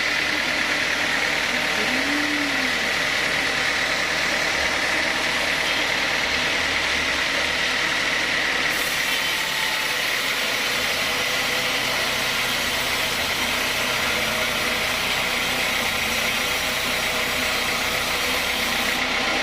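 Sawmill saw machinery running steadily, with a constant high whine over an even mechanical noise.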